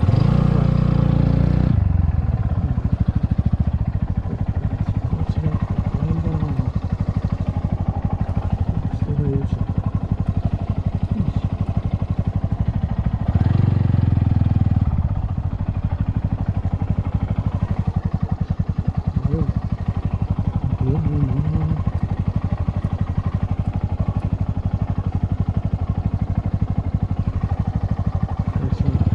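Motorcycle engine running at low speed as the bike is ridden slowly, with throttle opened briefly about a second in and again about halfway through.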